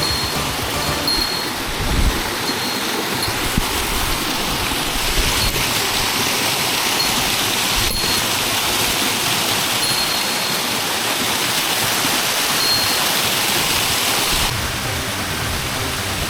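Waterfall water rushing, a loud, steady wash of falling water; its tone changes a little near the end.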